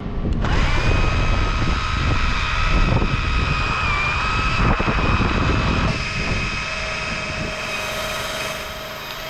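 Chainsaw engine running at high revs, a steady high whine that dips briefly in pitch about four seconds in.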